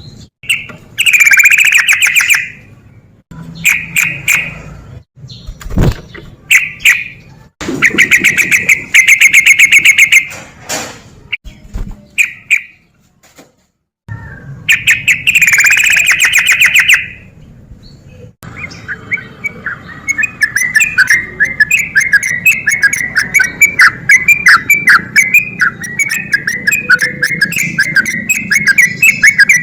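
Yellow-vented bulbul singing in loud, rapid trilled phrases broken by sudden pauses. From about two-thirds of the way in, the song turns into a continuous fast chatter of short notes.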